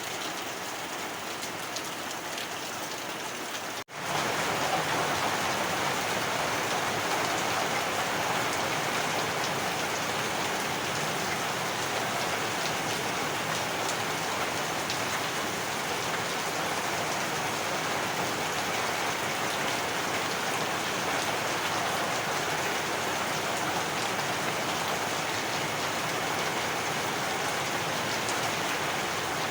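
Heavy rain falling steadily. About four seconds in it cuts out for an instant and comes back a little louder.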